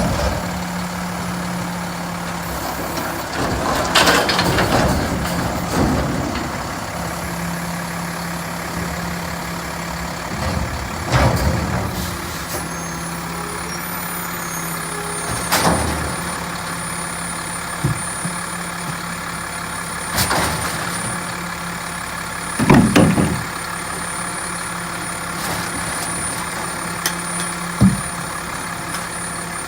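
Mack LEU recycling truck's packer cycling to compact a box. The diesel engine runs steadily, with sharp clunks and hissing surges every few seconds as the packer mechanism works.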